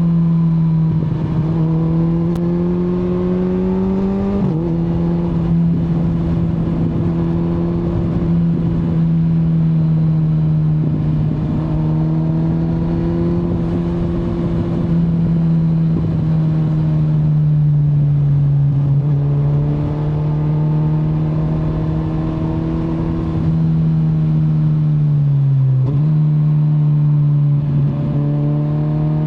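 2025 Kawasaki Z900 inline-four engine pulling steadily through a ride, its pitch rising and falling with the throttle. There is a gear change about four seconds in, and another near the end where the revs dip and then jump up.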